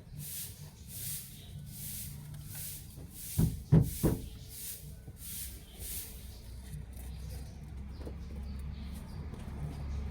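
Rhythmic swishing strokes of interior car cleaning, about one every two-thirds of a second, fading out after about six seconds. Three loud knocks come near the middle, over a low steady hum.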